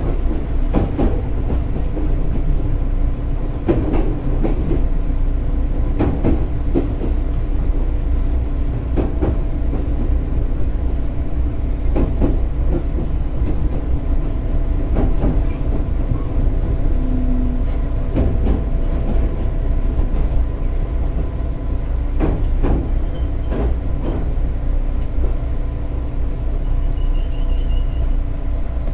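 Running sound inside a JR 211 series 6000 subseries electric multiple unit on the move: a steady low rumble with a constant hum, and wheels knocking over rail joints every few seconds.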